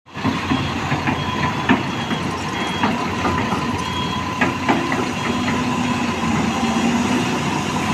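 Heavy construction machinery running steadily, its engine hum joined by scattered metallic knocks and clanks.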